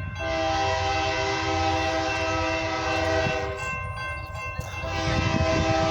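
Approaching train's locomotive air horn sounding a steady multi-note chord in two long blasts, the first lasting about three and a half seconds and the second starting about a second later, over the low rumble of the train.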